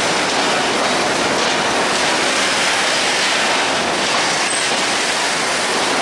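Freight train of bogie oil tanker wagons rolling past, a steady loud rush of wheels on rail.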